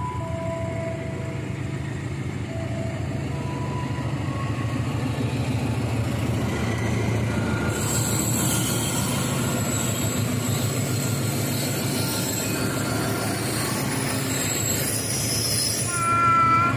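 A diesel-electric locomotive and its passenger train passing close by: a steady rumble of engine and wheels on the rails, with a high wheel squeal joining in about halfway as the coaches roll past. A brief, loud pitched sound comes near the end.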